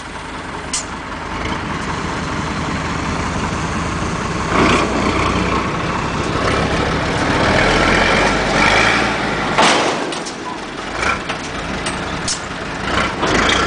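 Heavy truck engine running steadily, with a few brief clattering knocks about five, ten and thirteen seconds in.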